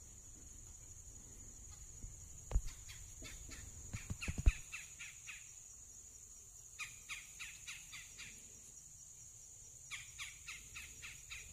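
A songbird calling in three quick runs of short falling notes, with two low thumps about two and a half and four and a half seconds in. A thin, steady high drone runs underneath.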